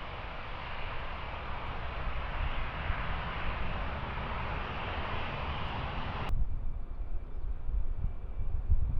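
Airbus A320 jet engines giving a steady rushing noise over a low rumble, cut off abruptly about six seconds in. After the cut, a low wind rumble on the microphone remains.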